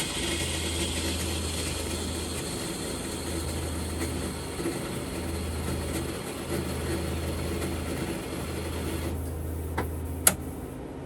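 Self-serve coffee machine running as it dispenses a drink: a steady mechanical whir and hiss over a low hum that stops sharply about nine seconds in, followed by two sharp clicks.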